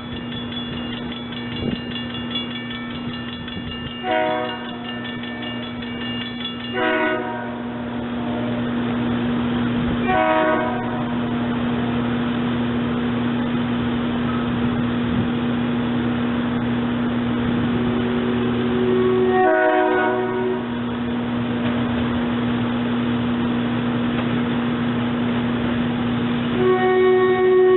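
SEPTA Silverliner electric multiple-unit commuter train sounding its multi-tone horn in several short blasts and then a longer one near the end, over a steady electric hum and the growing rumble of the train passing.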